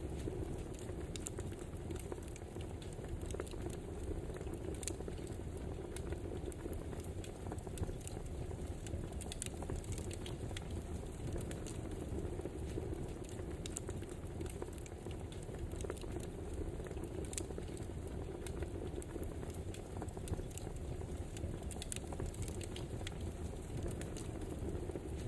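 Wood fire crackling: a steady low rumble of burning with frequent, irregular sharp pops and crackles.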